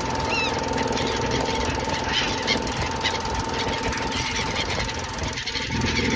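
An engine running steadily with a low throbbing, with gulls calling over it: one clear, arched call about half a second in, then fainter scattered calls.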